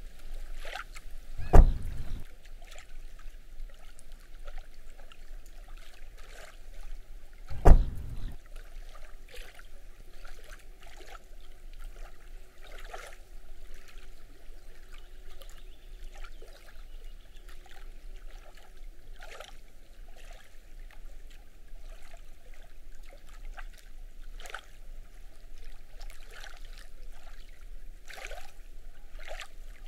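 Small waves lapping at a lakeshore, with frequent short splashy crackles, and two heavy low thumps about six seconds apart in the first eight seconds.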